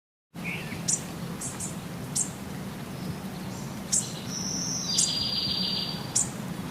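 Wild birds calling: short high chirps every second or so, and a buzzy trill a little past the middle, over a steady low hum.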